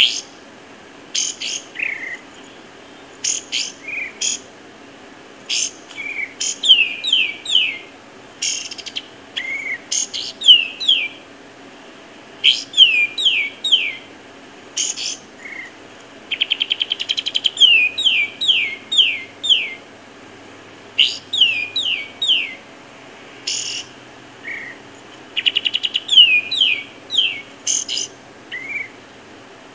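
Birds calling: short sharp chirps and repeated runs of three or four quick falling notes, with a fast rattling trill twice, once near the middle and once near the end.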